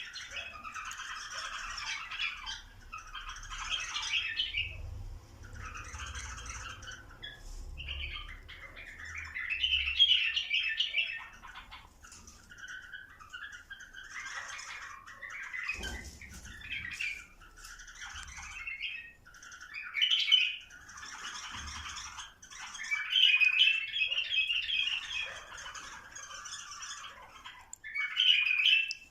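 Bulbuls calling in repeated bursts of chattering phrases, with short pauses between them. A single knock comes about halfway through.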